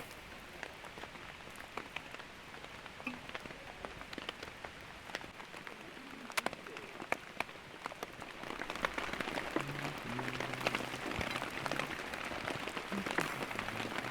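Rain falling steadily in a downpour, with many sharp ticks of drops striking; it grows louder about eight or nine seconds in.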